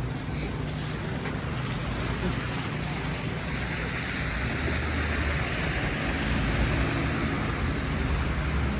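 Road traffic on a slushy street: low engine rumble, with a vehicle's tyres hissing through wet slush that swells from about halfway through as it passes close.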